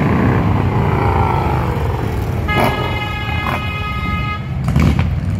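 Motorcycle engines running with a steady low rumble. About halfway through, a vehicle horn sounds for about two seconds, and a brief sharp blast follows near the end.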